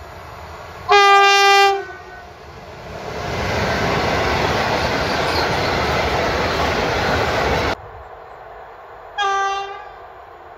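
Electric locomotive horn, one loud steady note lasting about a second, sounded by an approaching E594 (Siemens Vectron) hauling tank wagons. The wagons then roll past with steady wheel noise that builds and cuts off abruptly. Near the end another locomotive's horn gives a shorter blast.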